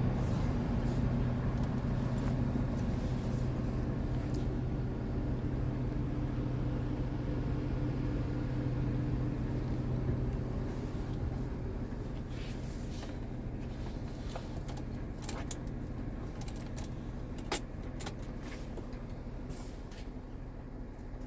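Scania G tipper truck's diesel engine idling steadily, growing fainter after about ten seconds, with a few sharp clicks near the end.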